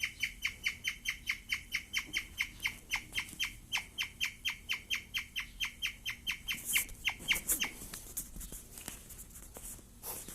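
Guinea pig chirping: a fast, even string of high, bird-like chirps, about five a second, which stops about three-quarters of the way through. This chirping is the sound of a guinea pig that is very excited. A few soft clicks and a brief rustle follow near the end.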